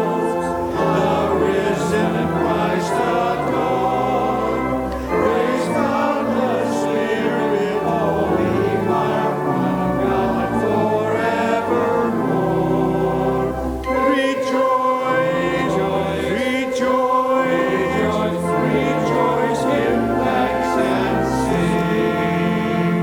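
A choir singing sacred music with instrumental accompaniment, in full, sustained chords.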